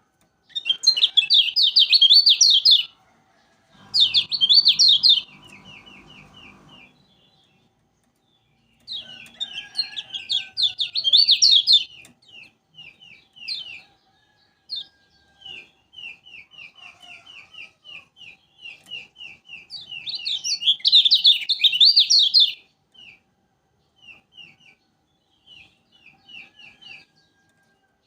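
Kecial kuning (Lombok yellow white-eye) singing: loud, rapid high trills in four bouts, linked by runs of short chirps repeated about four times a second. A low rumbling noise runs under the song for a few seconds about four seconds in.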